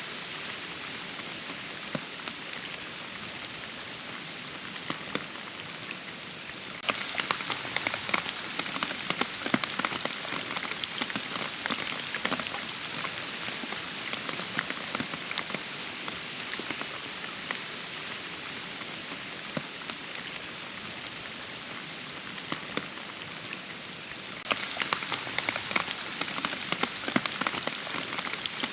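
Steady rain with many distinct close drop hits. It grows louder, with denser drops, about seven seconds in, and again for the last few seconds.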